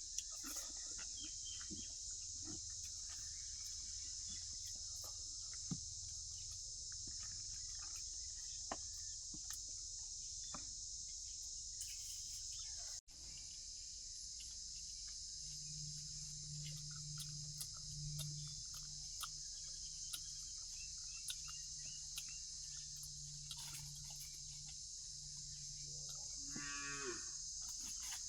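Steady high chirring of crickets, with scattered small clicks. A low steady drone runs through the second half, and a cow moos once near the end.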